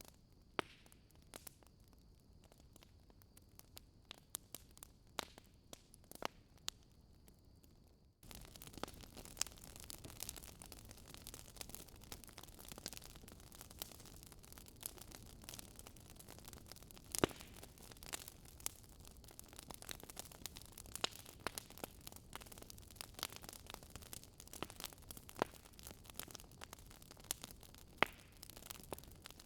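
Faint wood fire crackling in a fireplace: scattered sharp pops and snaps over a steady hiss. About eight seconds in, the hiss suddenly gets louder and the pops come more often.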